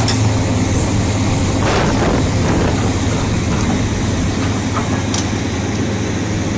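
Heavy vehicle engine running steadily with a low hum, with a brief noisy rush about two seconds in.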